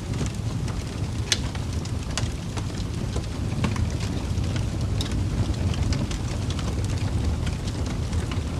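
Wood fire burning in a fireplace: a steady low rumble of flames with irregular sharp crackles and pops from the burning logs, one louder pop a little over a second in.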